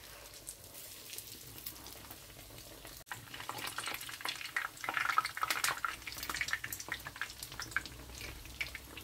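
Egg-coated slices of bread frying in hot sunflower oil, a dense sizzle and crackle. The crackling grows louder and busier a few seconds in, peaking about halfway, then eases a little.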